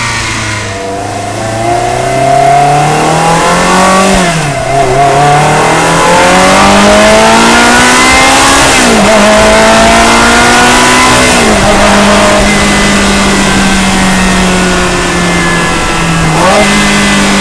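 Ferrari 360 Modena's 3.6-litre V8 through an aftermarket exhaust, heard close up from the engine bay: the engine note climbs through the gears with three upshifts, the pitch dropping at each, then holds steady at a constant speed, with a brief dip near the end.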